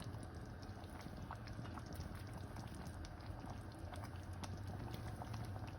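Chana gravy simmering in a pot, with irregular small bubbling pops over a steady low hum.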